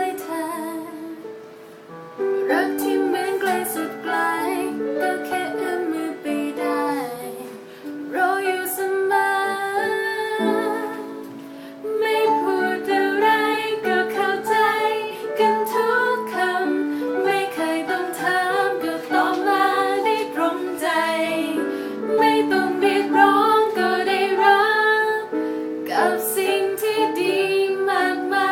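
A song sung to instrumental accompaniment: a young female-sounding voice carries the melody over sustained chords and plucked notes. The music dips briefly about 2 seconds in and again near 11 seconds before picking up.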